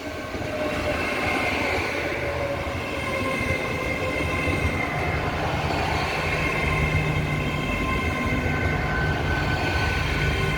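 Hitachi Class 802 IET train drawing into the platform. Its steady electric whine has one tone that falls slowly over the first few seconds, and a low hum grows from about halfway through.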